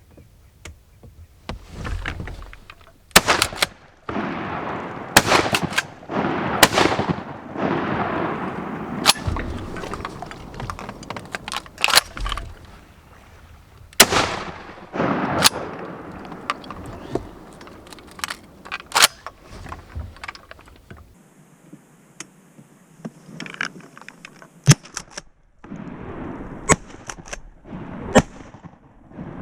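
A series of shotgun shots fired at ducks, several of them loud with a long echoing tail, spread over the stretch with smaller knocks and clicks between them.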